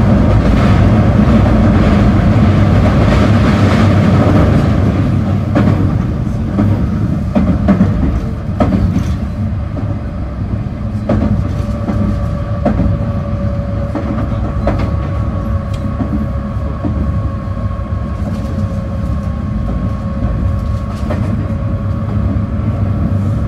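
Running noise inside a JR 221 series electric train's motor car: a heavy low rumble of wheels on rail with scattered clicks over the rail joints, louder in the first few seconds. From about halfway a steady whine sets in, its pitch sinking slowly.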